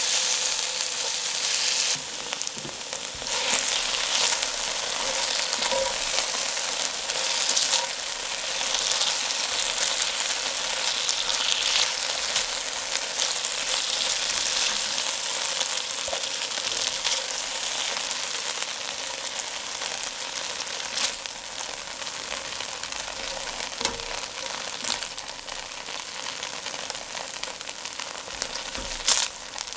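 Floured chicken breast cubes sizzling in hot oil in a steel wok as they are stirred and turned, with a few sharp clicks of the utensil against the pan. The sizzle eases over the second half as the pieces are lifted out.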